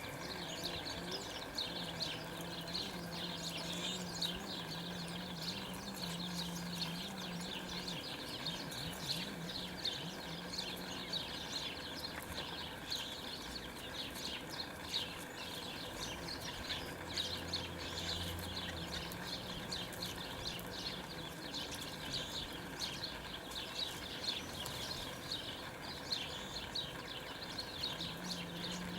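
Many small songbirds chirping and twittering at once in a dense, continuous chatter. A low steady hum runs underneath for the first few seconds and again near the end.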